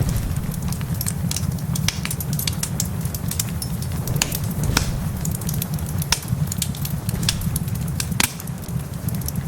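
Wood fire crackling with frequent irregular sharp pops over a steady rush of heavy rain and a constant low rumble.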